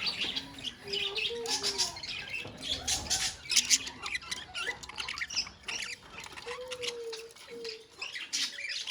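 A colony of budgerigars chattering: many overlapping rapid chirps and squawks with no break.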